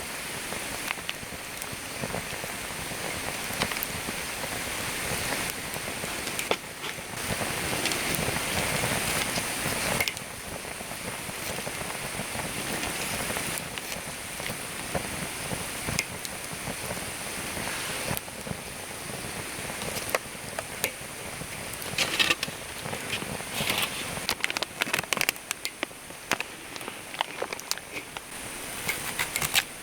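Wood campfire crackling over a steady hiss, with sharp pops that grow more frequent in the last third.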